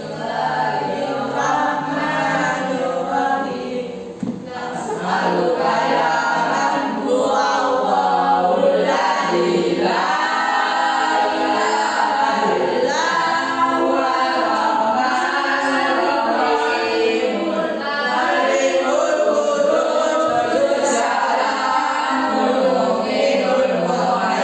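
A group of voices singing a song together, choir-style, getting fuller and louder about five seconds in.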